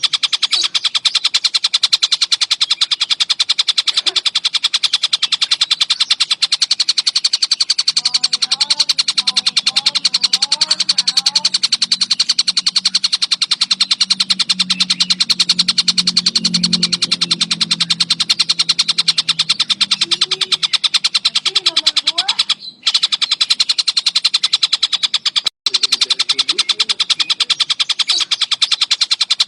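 Tengkek buto (collared kingfisher) calling in very fast, tightly packed runs of high notes with no pause, the dense 'speed rapat' chatter used as masteran for songbirds. The sound cuts out briefly twice near the end.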